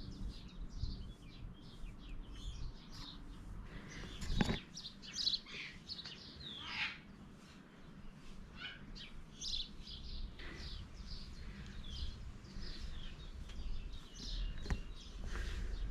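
Birds chirping and calling: a steady run of short, high chirps with a few longer calls that fall in pitch, and one sharp knock about four and a half seconds in.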